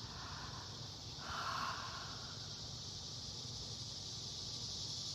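A chorus of cicadas buzzing as one steady, high, unbroken drone that swells slightly towards the end. A brief, softer, lower sound comes in about a second in, with a low wind rumble underneath.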